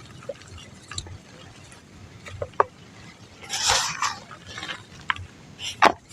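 Dry mud crumbling between fingers. There are scattered small crackles, a longer gritty crunch about halfway through, and a sharp snap near the end.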